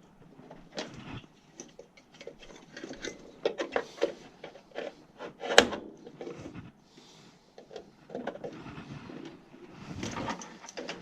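Irregular clicks, knocks and rattles of furnace parts and tools being handled during reassembly, with one sharper knock about halfway through.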